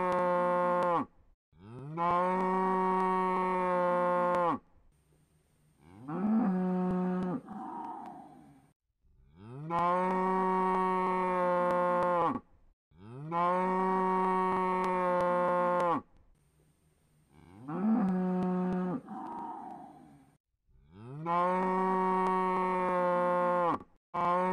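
A cow mooing again and again: about seven moos, most of them long and steady at one pitch, each lasting about three seconds. Two are shorter calls that jump up in pitch. The same sequence of moos repeats like a loop.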